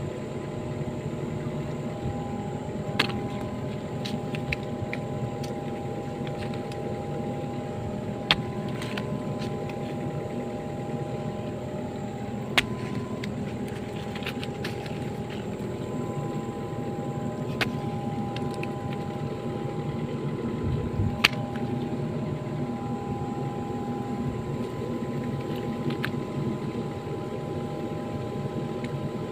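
Excavator's diesel engine running steadily, with a higher steady whine that cuts in and out and a few sharp knocks now and then.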